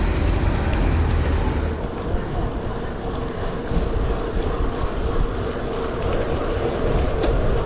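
Wind rushing over a bike-mounted action camera's microphone while riding a road bike, heaviest for the first two seconds, with a steady hum coming in about three seconds in.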